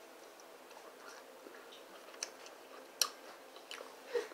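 Quiet chewing of instant noodles, with a few sharp clicks of a metal fork against a glass bowl, the loudest about three seconds in.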